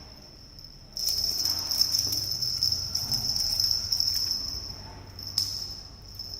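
A high, steady insect trill, like crickets chirring, growing louder about a second in and dropping back near the end.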